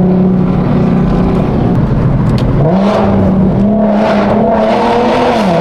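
Car engine running under way as the car turns around. The engine pitch rises about two and a half seconds in as it accelerates, holds, then drops back near the end.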